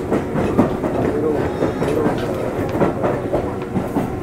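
Tobu Railway 8000-series electric train running, its wheels clicking over rail joints in an irregular clickety-clack, with a steady hum underneath.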